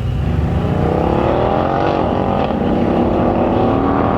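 Mercedes-AMG V8 engine accelerating: the engine note rises in pitch, dips briefly about two seconds in, then climbs again.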